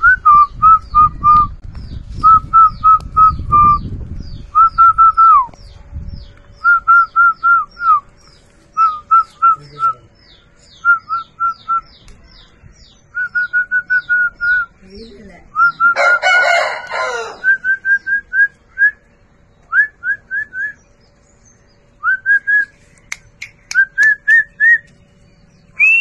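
A bird calling in runs of three to six short, clear whistled notes, over and over, with one brief harsh call about sixteen seconds in.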